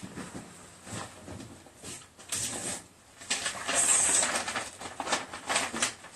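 A sheet of drawing paper being turned over and handled, giving several rustles. The longest comes about halfway through, followed by a few short scrapes near the end.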